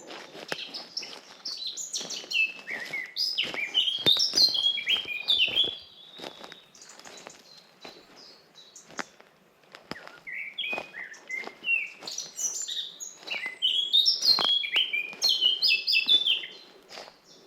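A songbird singing two long phrases of rapid, tumbling high notes, with a pause of a few seconds between them, over the soft crunch of footsteps on a forest path.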